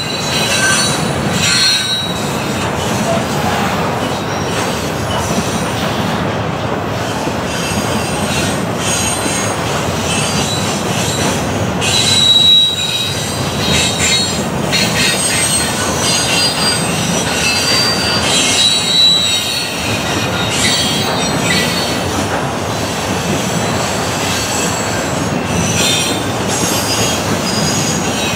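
Double-stack intermodal container train rolling past: a steady rumble of steel wheels on rail with scattered clicks, and a few brief high-pitched wheel squeals.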